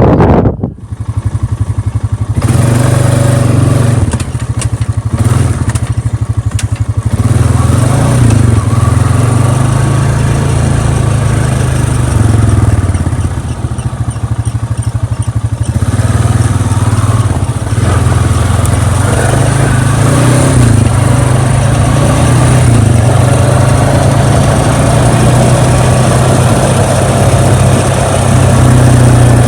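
A vehicle engine running steadily after a short dip in level in the first second or so, its speed rising and falling a little.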